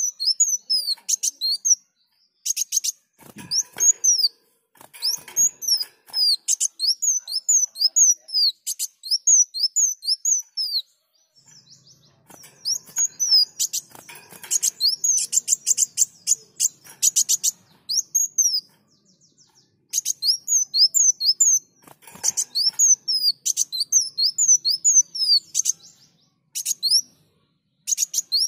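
Kolibri wulung sunbird singing vigorously: rapid runs of high, thin down-slurred notes mixed with fast trills, in bursts broken by short pauses.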